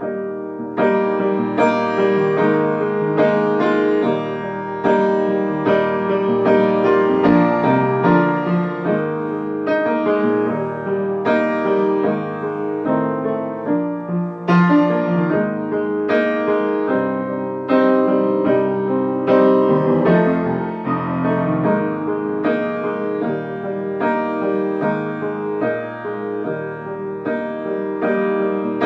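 Solo piano playing an instrumental passage of a ballad: chords and melody notes struck one after another at a steady, moderate pace, with no voice.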